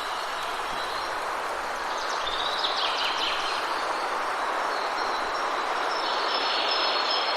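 Forest ambience: a steady rushing noise with birds chirping over it, and a brief flurry of chirps about two to three seconds in.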